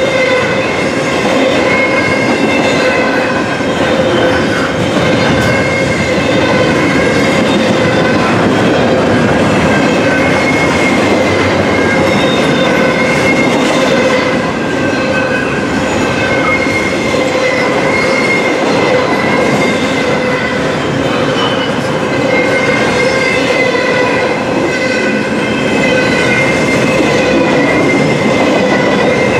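Double-stack intermodal well cars of a freight train rolling steadily past, loud steel wheels clattering on the rails, with steady wavering squealing tones from the wheels.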